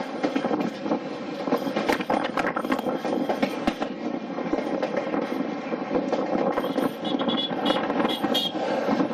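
A passenger train running at speed, its wheels rumbling and clattering over the track with a continuous run of clicks, heard from an open carriage window.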